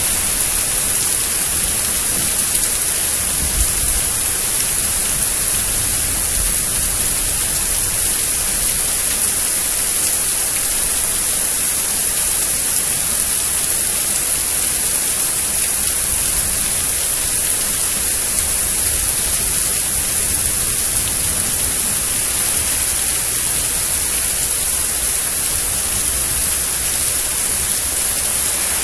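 Rain falling steadily during a thunderstorm: a loud, even hiss with no break.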